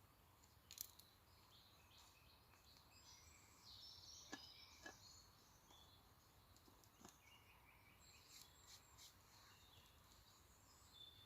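Faint woodland ambience: distant small birds chirping on and off, with a few short sharp clicks or snaps scattered through.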